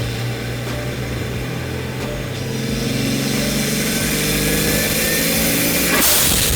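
Turbocharged Nissan R32 Skyline engine revving, its pitch climbing over a few seconds, then the blow-off valve venting with a short, sharp hiss about six seconds in.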